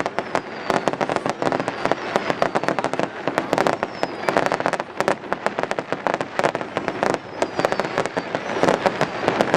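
Many fireworks going off together in a dense, unbroken barrage of bangs and crackles, with a few faint falling whistles now and then.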